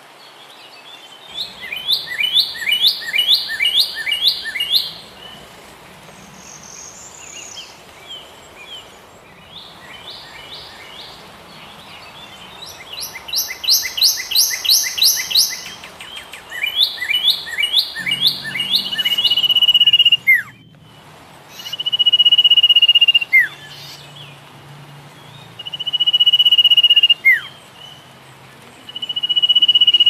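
Birds calling: several bursts of rapid repeated chirps, then, from a little past halfway, a long steady whistle ending in a quick downward slur, repeated four times.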